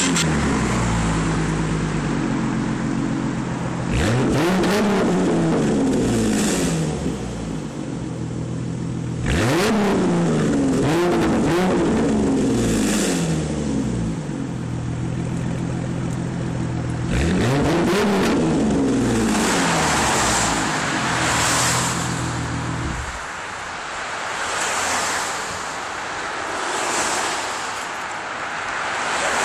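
2010 Ford Mustang's 4.0-litre V6 running through a Ford Racing (FRPP) aftermarket exhaust: idling, and revved three times, the middle rev a quick run of blips. The engine stops suddenly about two thirds of the way through, leaving a hiss that swells and fades.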